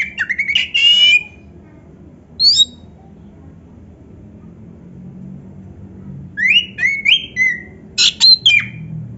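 Oriental magpie-robin (kacer) singing in quick phrases of sharp clicks and slurred whistles, one short phrase about two and a half seconds in, then two more phrases of rising and falling whistles near the end. A steady low hum runs underneath.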